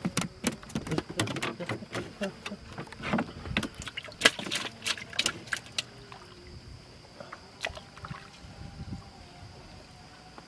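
Irregular knocks, clatter and splashes of work aboard a small fishing boat, busy for about the first six seconds and then thinning out to occasional knocks.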